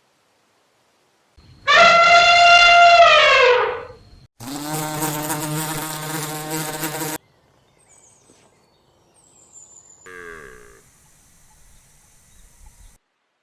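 A run of separate animal calls: a loud high call of about two seconds that drops in pitch at its end, then a lower, rough call of about three seconds, then faint short chirps and a thin high whine near the end.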